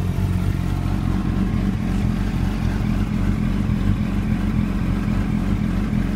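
Motorcycle engine idling steadily, a low even drone.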